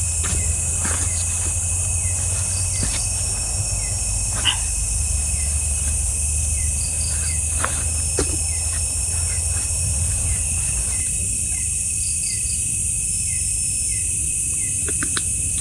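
Night insects calling in a forest: a constant high-pitched drone with a steadier lower trill and short repeated chirps, over a low rumble and a few faint clicks.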